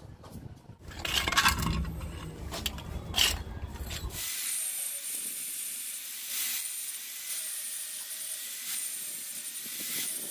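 Metalworking tool sounds: scraping, knocks and a low rumble for about four seconds, then an abrupt change to a steady hiss with a faint high whine.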